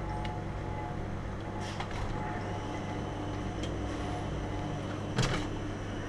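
Steady low mechanical hum with a few held tones, broken by a couple of short knocks, the loudest about five seconds in.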